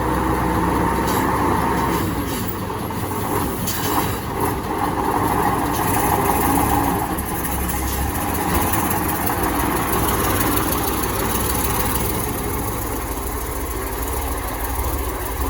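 Dump truck engine running steadily, with a few short clicks in the first few seconds.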